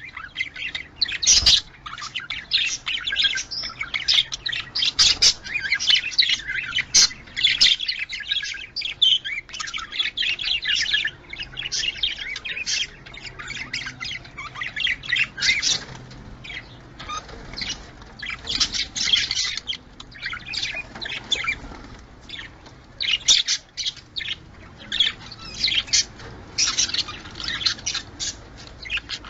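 Budgerigars chattering: a continuous stream of rapid chirps, warbles and squawks. This is breeding-stimulation chatter played to bring pet budgies into breeding condition.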